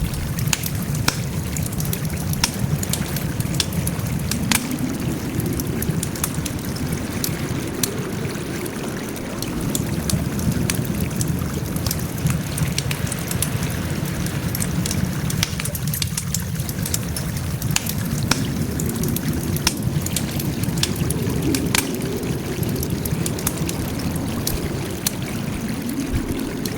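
Wood campfire crackling: frequent sharp snaps and pops over a steady low rumble of burning.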